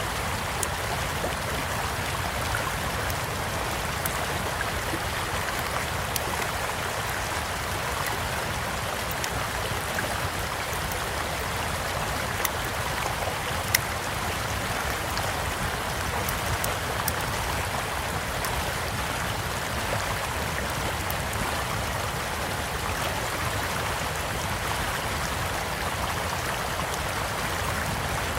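Steady rushing of a flowing stream, with scattered small crackles and pops from a wood campfire over it; one sharper pop stands out about halfway through.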